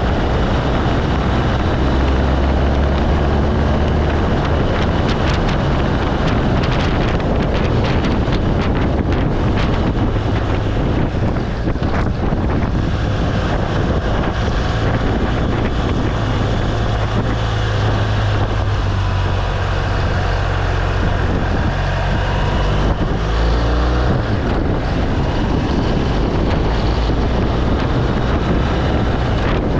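BMW R1200 GS Adventure's boxer-twin engine running while riding, with wind rushing over the microphone. The low engine note shifts a few times, clearly around two-thirds of the way through.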